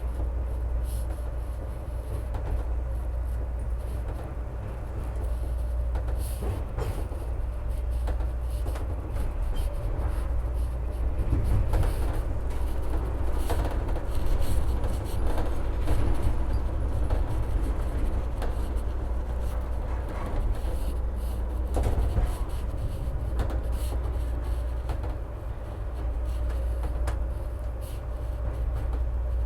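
CTA Pink Line rapid-transit train running on elevated track: a steady low rumble with a constant clatter of wheel clicks and knocks over the rails and a faint steady whine. It gets louder for several seconds in the middle, then eases.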